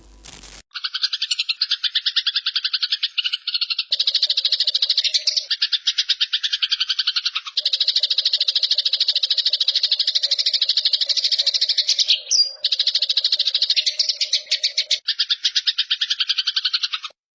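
Eurasian tree sparrow giving a loud, rapid, harsh chattering trill, the "nyerecet" fighting call, in long runs broken by short pauses.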